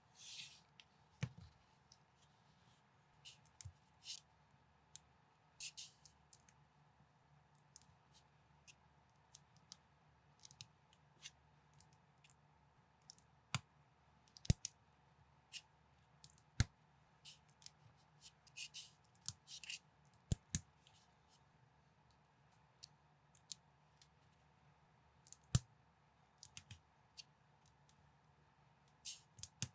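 Plastic building bricks being snapped together and handled: irregular sharp clicks with short rustles of pieces in between.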